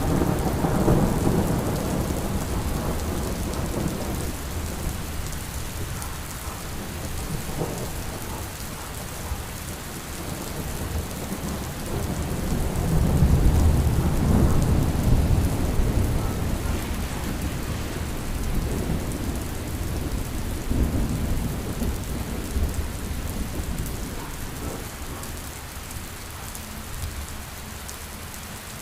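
Steady rain with rolling thunder. Low rumbles swell near the start and again about halfway through, then die away toward the end.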